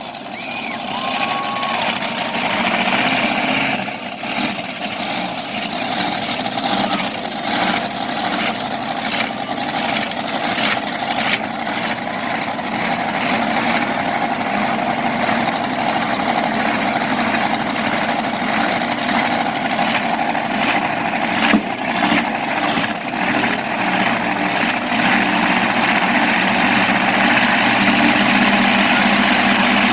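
Monster truck engines running and revving, loud and steady, getting louder toward the end.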